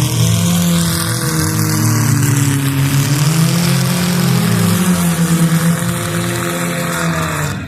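Car engine revving hard, its pitch sagging and then climbing again, over a steady haze of track noise.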